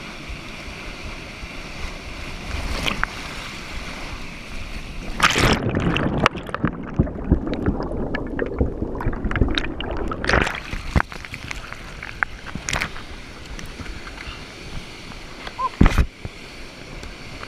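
Kayak capsizing in whitewater turbulence: rushing water, then a loud splash about five seconds in, after which the water goes heavily muffled, heard from underwater, for about five seconds. A second loud splash comes as it breaks the surface again, followed by paddle splashes and knocks.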